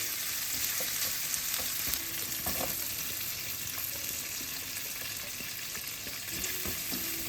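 Food sizzling steadily in a hot frying pan, with a light click or two of a utensil about two and a half seconds in.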